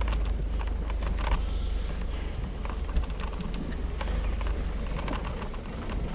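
Smart car driving over a rough grass trail: a steady low rumble with scattered clicks, knocks and rattles from the bumpy ride.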